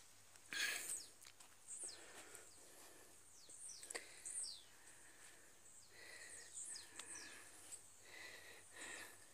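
Faint bird calls, short falling chirps repeated every second or so, over a low background rustle. A brief louder rush of noise comes about half a second in.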